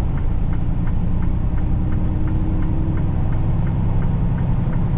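Semi truck's diesel engine and road noise heard from inside the cab while driving: a steady low rumble, with a faint regular ticking about three times a second.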